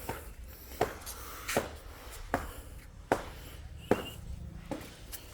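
Footsteps at a steady walking pace, one sharp step about every three-quarters of a second, seven in all.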